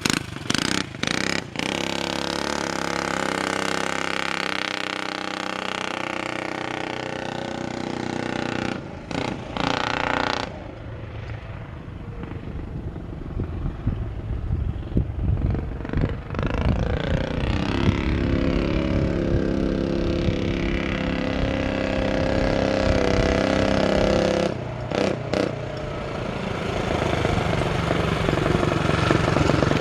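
Coleman CT200U minibike's single-cylinder engine running through a side-exit loop exhaust pipe, its pitch rising and falling as the throttle is worked, with a few short dips in the sound partway through.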